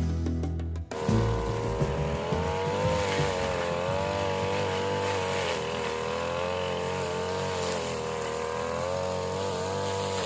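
Small petrol engine of a grass-cutting machine running fast and steady, its pitch wavering slightly as it works, taking over from guitar music about a second in.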